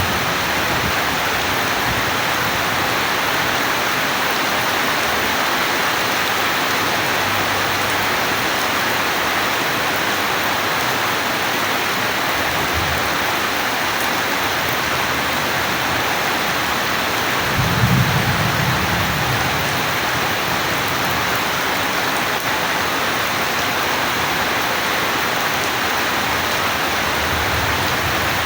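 Steady heavy rain, with low rolls of distant thunder, the clearest about two-thirds of the way through.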